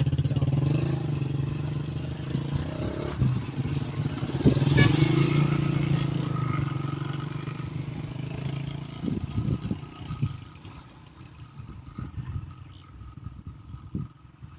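Heavy truck's engine running with a steady low drone that fades away over the second half, as the truck pulls away. A single sharp clank about five seconds in.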